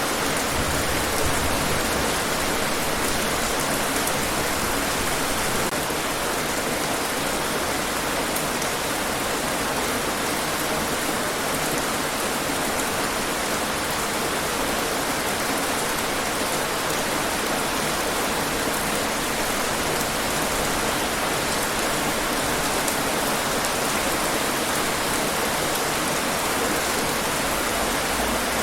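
Steady rainfall hissing, with fine drops pattering on hard surfaces.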